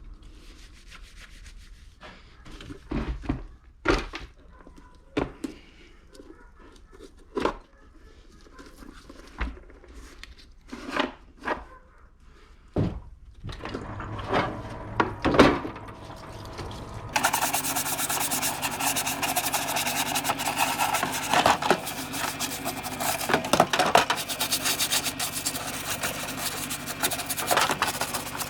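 Workshop handling sounds: scattered knocks, clicks and rubbing scrapes of parts and tools being worked by hand. About two-thirds of the way in, a steady machine noise starts abruptly and keeps running.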